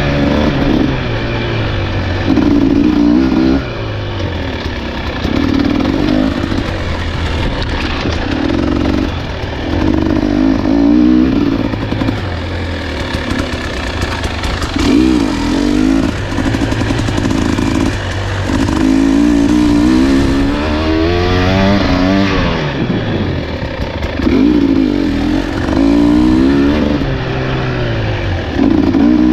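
Dirt bike engine on a trail ride, the throttle opened and closed over and over, so the engine revs rise and fall about every one to two seconds.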